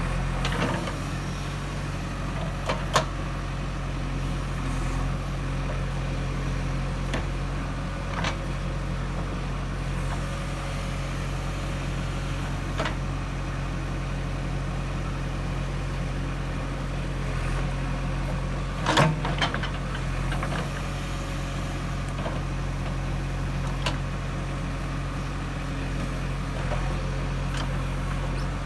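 JCB 3DX backhoe loader's diesel engine running steadily, with a few short sharp knocks and clanks now and then, the loudest cluster about two-thirds of the way through.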